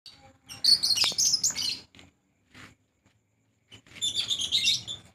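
A group of lovebirds chattering with shrill, high-pitched chirps in two busy spells, about a second in and again near the end, with a few single chirps between.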